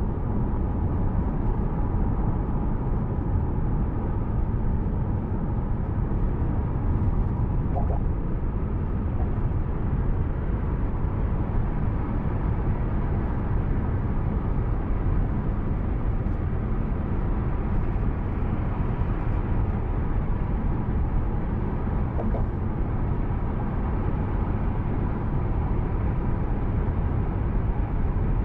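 Steady low rumble of a car driving, road and engine noise picked up by the dashcam microphone inside the cabin, with no change in pace or loudness.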